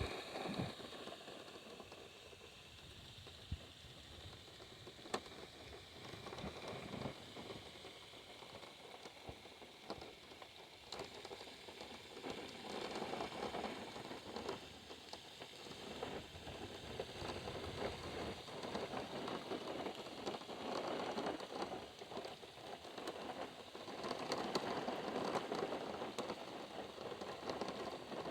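Rain pattering on a car's roof and windshield, heard from inside the car. It gets heavier about halfway through and heavier again near the end.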